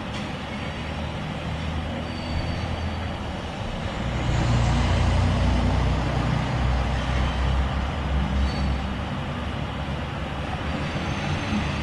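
Loaded grain freight train rolling past, a steady rumble and wheel noise. It swells louder with a low engine drone from about four seconds in, easing off after about eight seconds.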